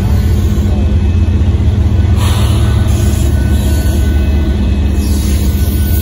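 Union Pacific freight train passing close by: a steady, heavy low rumble from the diesel locomotives and the gravel hopper cars behind them. Brief hissy rushes of wheel-on-rail noise come about two seconds in and again near the end.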